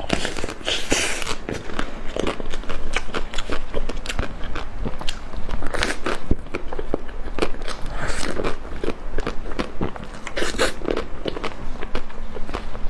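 Close-miked biting and chewing of crispy-shell mango, with many irregular crackling crunches.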